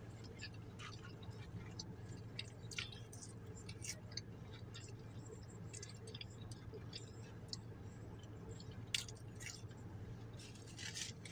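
Close-up chewing and mouth sounds of someone eating fast food: scattered soft clicks and squishes over a faint low steady hum.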